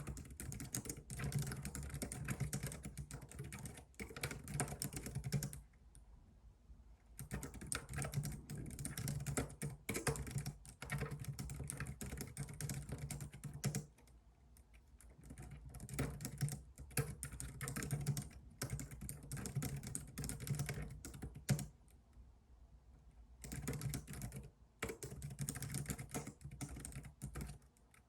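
Typing on a computer keyboard: fast runs of key clicks in bursts of several seconds, with brief pauses three times.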